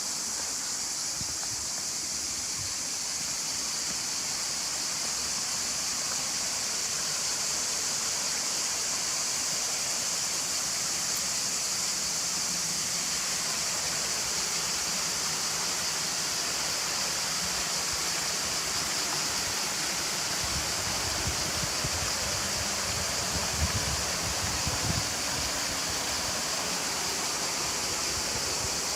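Steady rush of water from a waterfall and stream, with a bright hiss on top. A few brief low rumbles come about three-quarters of the way through.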